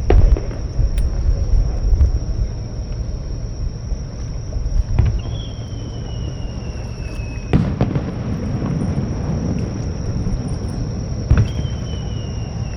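Aerial fireworks shells bursting, four sharp bangs a few seconds apart, two of them followed by a thin whistle that falls slowly in pitch, over a steady low rumble.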